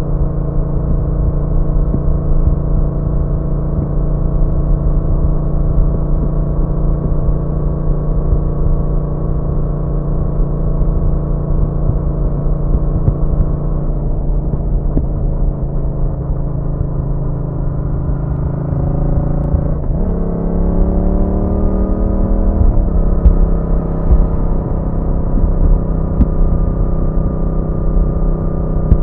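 Yamaha MT-07's parallel-twin engine running at a steady cruise under wind rumble. Its tone softens about halfway through. About 20 s in there is a brief break, then the revs climb. Near 23 s they drop back with a gear change, and the bike settles into a steady cruise again.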